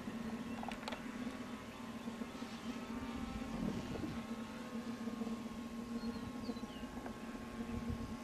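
Electric RC model plane's motor and propeller droning at a steady pitch, with wind rumbling on the microphone.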